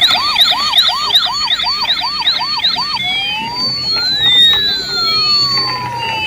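Toy ambulance's electronic siren: a fast yelp of about three rising sweeps a second, switching about three seconds in to one slow wail that rises and then falls.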